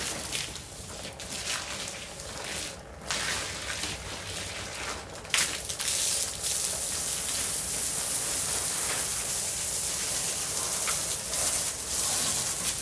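Garden hose spraying water onto plants, patchy for the first few seconds, then a steady, louder spray from about five seconds in.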